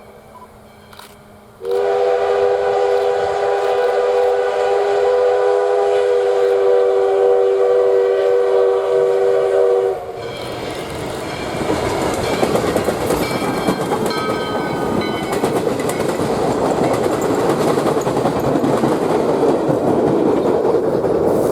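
US Sugar steam locomotive #148's whistle blowing one long, steady blast of about eight seconds. The train then rolls past loudly, with the rumble and clatter of the locomotive and cars.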